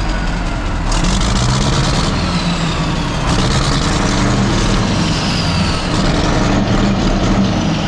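Rolls-Royce turbo diesel engine running steadily, newly brought back to life, with a faint high whine that slowly falls in pitch.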